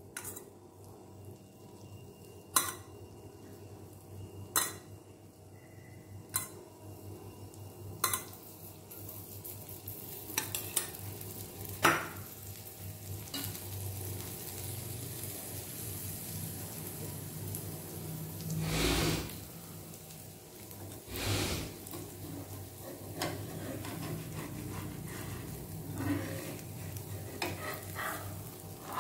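Dosa sizzling on a flat griddle pan (tawa) after oil has been poured around its edges, the hiss of frying building about a third of the way in as it crisps. A few sharp clicks come in the first half, and two louder swells come about two-thirds through.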